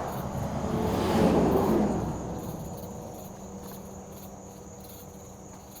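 A vehicle passing at highway speed close by, its rush swelling to a peak about a second in and fading away over several seconds, over a steady high trilling of night insects.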